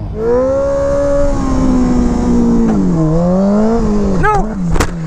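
Motorcycle engine running and revving: its pitch holds, sinks and climbs again, then rises and falls quickly with short throttle blips near the end. A steady low engine drone lies underneath, and a sharp click comes just before the end.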